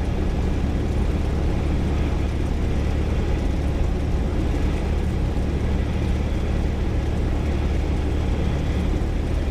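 Single-engine piston aircraft engine and propeller running steadily at power, a constant low drone with a strong steady hum.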